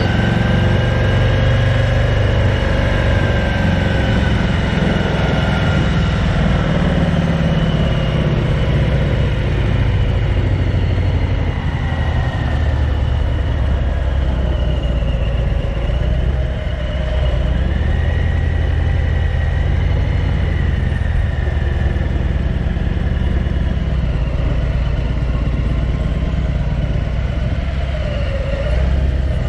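Harley-Davidson Softail's V-twin engine running under way at road speed, its pitch rising and falling gently as the speed changes.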